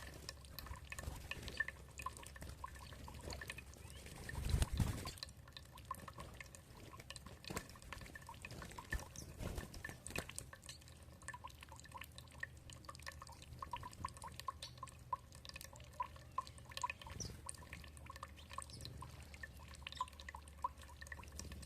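Water dripping and trickling, a dense patter of small drops, with a louder splash of water about four to five seconds in.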